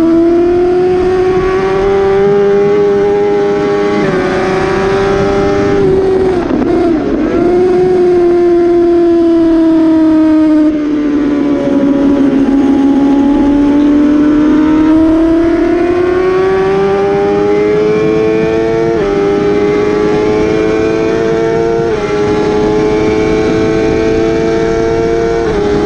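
Suzuki GSX-R 750 K7's inline-four engine at full race pace, heard onboard over heavy wind rush. Its pitch sags as the bike slows through a corner, then climbs steadily out of it, with short steps in pitch at each gear change on the straight.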